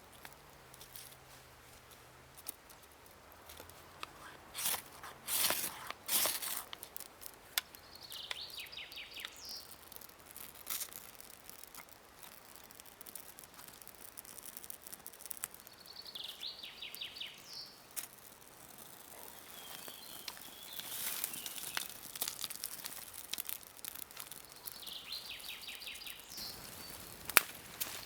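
Sharp scrapes and crackles from lighting a campfire with a ferro rod and birch-bark tinder, loudest in a cluster a few seconds in and again near the end. A songbird repeats the same short trilled phrase three times.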